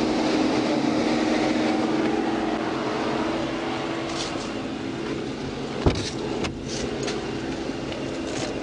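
A vehicle running with a steady hum, with one sharp click about six seconds in.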